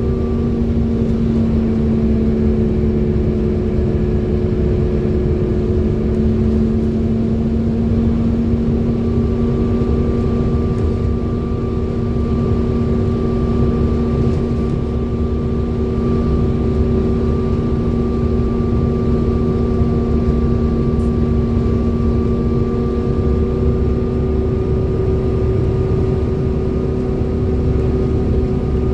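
Salisbury Reds bus 1140's engine running at a steady speed with a loud, steady vacuum-cleaner-like whine over its rumble, the sound bus enthusiasts call a 'hoover'.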